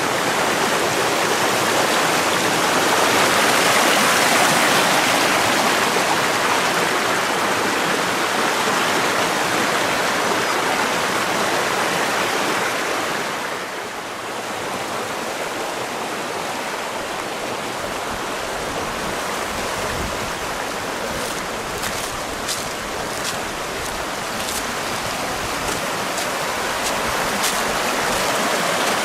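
Waterfall pouring, a steady, loud rush of water that drops a little about halfway through; a few light clicks and some low rumble come in over it near the end.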